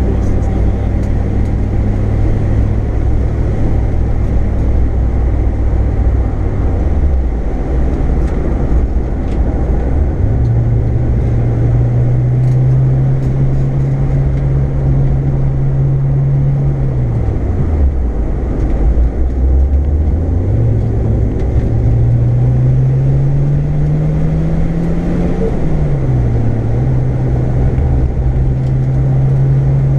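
Car engine heard from inside the cabin at speed. Its note falls away and climbs again several times as the driver lifts off and accelerates, over steady road and wind noise.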